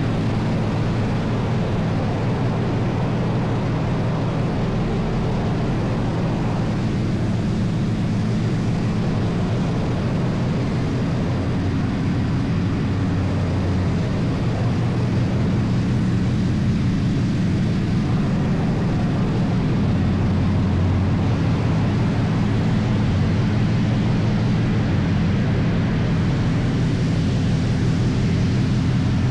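Steady, loud low drone with a hiss on top, from a car in a car wash, holding unbroken throughout.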